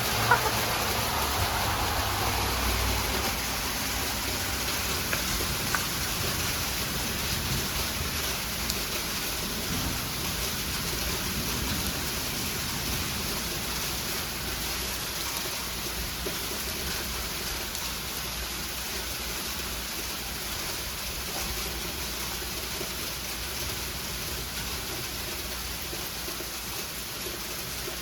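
Sleet and freezing rain falling steadily onto surfaces, a dense even hiss that slowly grows fainter.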